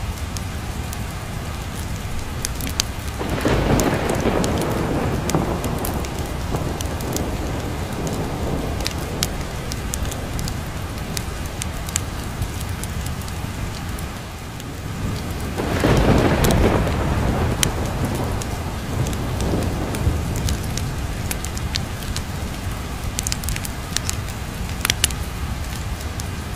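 Steady rain with two rolls of thunder, one about three seconds in and a louder one about sixteen seconds in, each fading out over several seconds. Scattered sharp crackles from a wood fire run through it.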